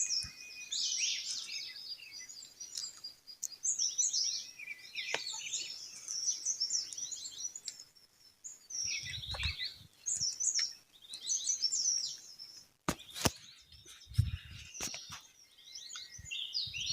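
Several songbirds chirping and singing in quick, overlapping trills and tweets. A few low rumbles and sharp clicks break in during the second half.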